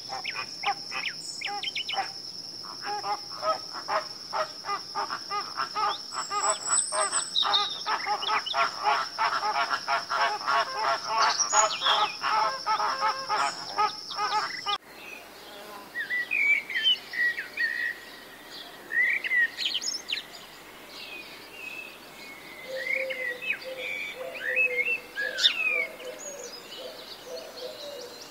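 A flock of greater flamingos calling, a dense run of short honking calls several a second, over a steady high insect buzz. About halfway through this cuts off and gives way to scattered songbird chirps and short gliding whistles.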